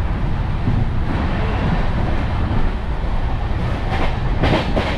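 Moving Indian Railways express train heard from inside a sleeper coach: a steady running rumble of wheels on the track, with a few knocks about four and a half seconds in.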